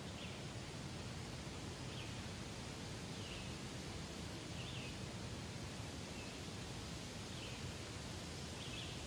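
Faint outdoor ambience: a steady hiss with a small bird chirping briefly about every one and a half seconds.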